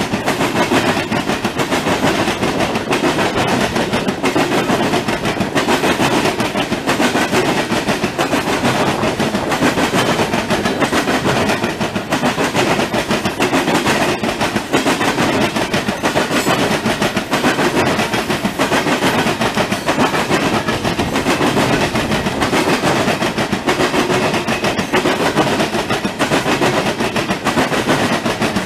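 Loaded Norfolk Southern coal hopper cars rolling past: a steady, loud rumble with rapid, continuous clatter of steel wheels on the rails.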